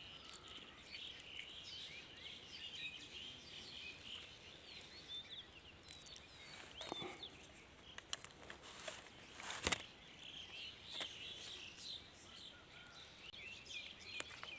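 Birds chirping over a faint outdoor background, with a few sharp clicks, the loudest about two-thirds of the way in.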